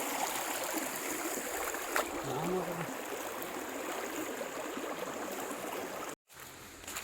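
Stream water rushing steadily, cutting off suddenly about six seconds in.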